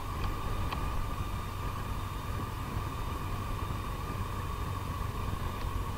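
Yamaha FJR1300's inline-four engine running steadily as the motorcycle rides a rutted dirt lane: a continuous low engine rumble with a steady higher tone over it and a couple of faint ticks early on.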